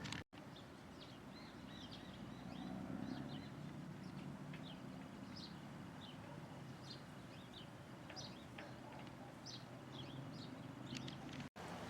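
Small birds chirping: many short, high calls scattered throughout, over a low steady background rumble. The sound drops out completely for an instant just after the start and again near the end.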